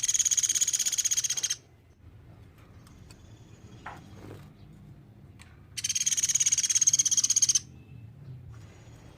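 Pelatuk beras woodpecker calling: two long, high-pitched, rapid rattling trills of about a second and a half each, one at the start and the other about six seconds in.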